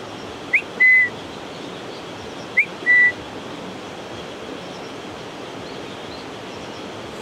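A bird whistling twice, about two seconds apart: each call is a quick rising note followed by a short, clear, level note.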